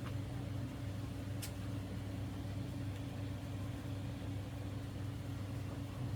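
A steady low machine hum, with one short click about a second and a half in.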